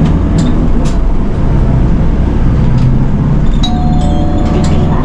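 City bus engine running under way, heard from inside the cabin, with a steady low rumble and scattered clicks and rattles. A short steady tone sounds from about three and a half seconds in until near the end.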